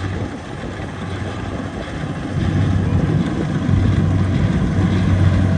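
Kubota DC70 rice combine harvester's diesel engine running steadily with a low hum, growing louder about two seconds in.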